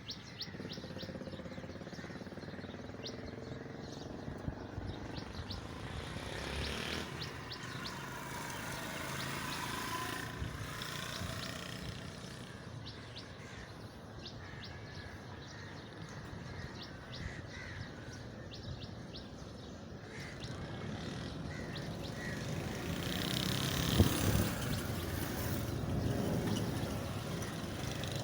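Birds chirping over a steady engine hum, with a faint whine rising slowly partway through and a brief knock about 24 seconds in.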